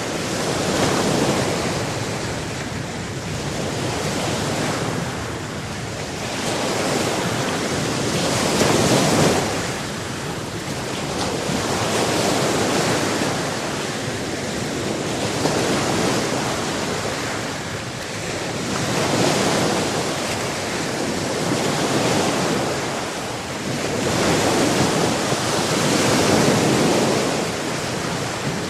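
Tyrrhenian Sea waves breaking and washing on the shore, the surf swelling and falling back about every three to four seconds.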